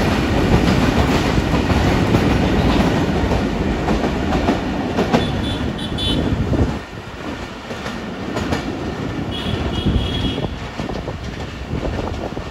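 A freight train of oil tank wagons passes close by, its wheels clattering and rumbling on the rails. About seven seconds in, the noise drops sharply as the last wagon goes by, and the train's running sound fades as it draws away.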